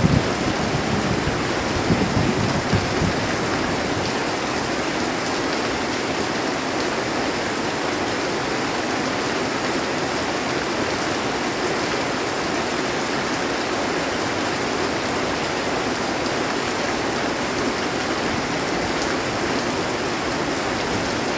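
Heavy rain drumming steadily on a metal roof. The last of a thunder rumble dies away in the first few seconds.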